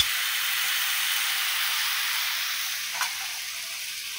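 Stir-fry of winged beans, straw mushrooms and tofu sizzling in a hot wok: a steady hiss that eases off a little in the last second or so, with a faint knock about three seconds in.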